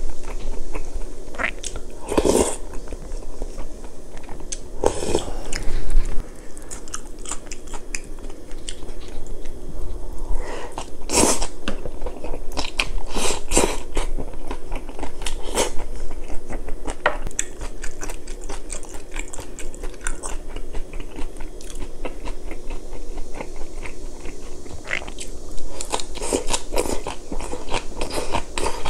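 Close-miked chewing and crunching of mouthfuls of rice, spicy stir-fried pork and kimchi, in irregular bites with short sharp crunches now and then.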